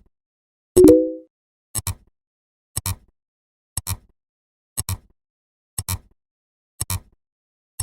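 Short sound effects paced about once a second: a sharp double click repeats six times. About a second in, a louder, short tone with a few pitches takes the click's place and fades within half a second.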